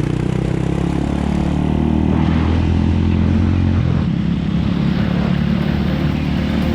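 Suzuki Thunder 250 motorcycle engine running under way, with road and wind noise. The engine note eases off about four seconds in.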